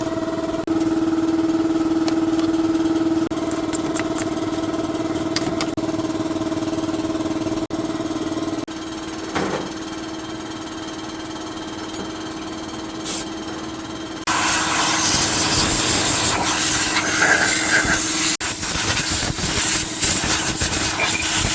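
A steady mechanical hum that shifts in level a few times and fades down partway through, then about two-thirds of the way in a loud, rough, hissing noise starts suddenly.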